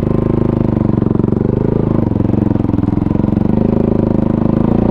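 Kawasaki KFX450R quad's 449 cc single-cylinder four-stroke engine running at low, steady revs, with no clear rev rises.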